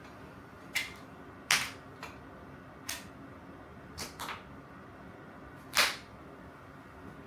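Tools and small parts being handled and set down on a workbench: about seven sharp, irregularly spaced clicks and clacks, the loudest about a second and a half in and another near the end.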